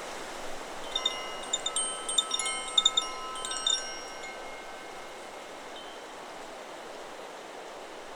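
Tuned metal wind chime, the Chakra Chimes 'Solar Plexus' model, struck by the wind in a flurry of strikes from about one to four seconds in, several pitched tones ringing and fading out. A steady hiss of wind and rustling trees carries on underneath.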